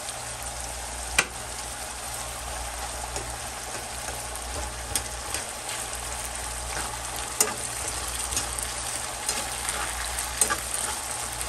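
Finely diced potatoes sizzling steadily in oil in a nonstick frying pan as they are stirred with a spoon, with a few sharp clicks, the loudest about a second in.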